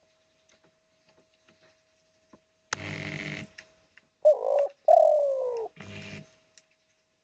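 Spotted dove calling. A rough, throaty note comes about two and a half seconds in, then a short coo and a longer coo that falls in pitch, and another rough note after it.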